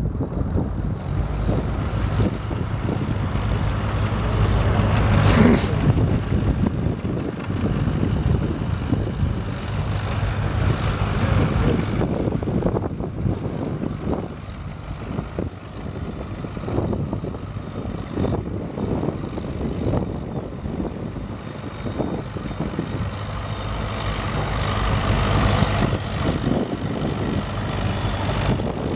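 Antique farm tractor engine running hard under load in a tractor pull, growing louder about five seconds in and again near the end.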